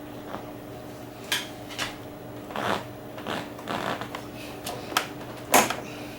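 Irregular metal clicks, knocks and short scrapes of a wrench working a motorcycle's front brake line banjo bolt loose, the loudest a sharp knock about five and a half seconds in. A steady low hum runs underneath.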